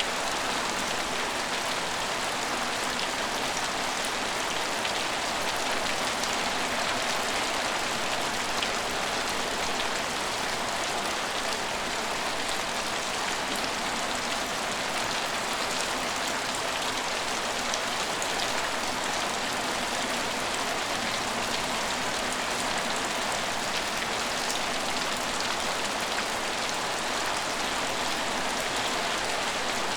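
Steady rain falling on a station, an even hiss of drops with fine scattered patters that does not change.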